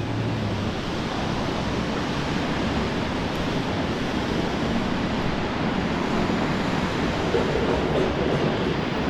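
Heritage City Circle tram running on its rails: a steady noise of wheels and motor that grows a little louder near the end.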